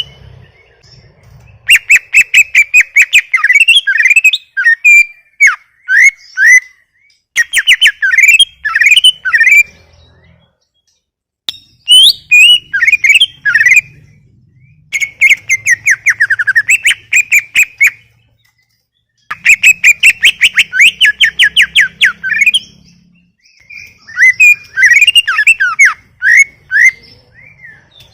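A cucak ijo (green leafbird) singing loudly in repeated phrases of rapid, sweeping notes, about six phrases with short pauses between them.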